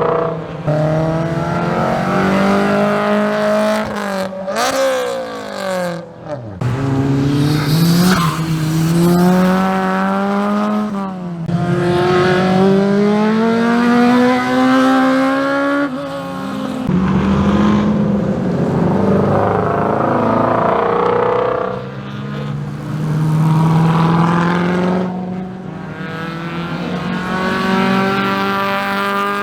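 Several car engines accelerating hard one after another, each climbing in pitch and dropping back at gear shifts; the loudest run-ups come in the middle and again near the end.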